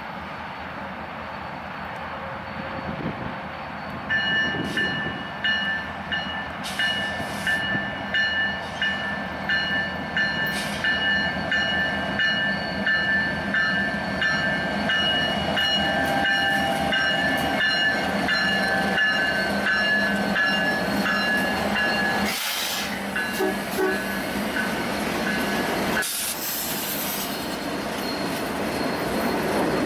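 Union Pacific train rolling past, its wheels clicking rhythmically over the rails. A high, pulsing ringing tone sounds over it for about twenty seconds and stops near the end.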